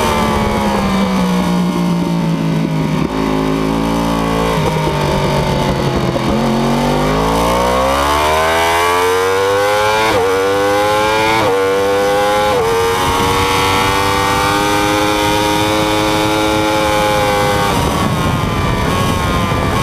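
Yamaha R1 (RN32) crossplane inline-four heard from onboard: the revs fall for several seconds as the bike slows, then climb hard under acceleration with three quick upshifts about ten to thirteen seconds in. The engine then holds a steady pitch before the revs drop again near the end.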